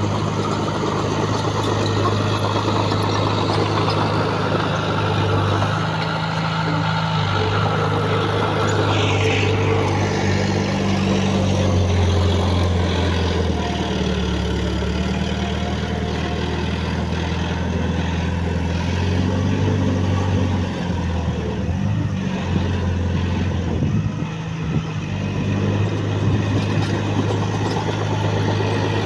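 Heavy diesel engine of earthmoving machinery running continuously, its low engine note shifting up and down as it works under load.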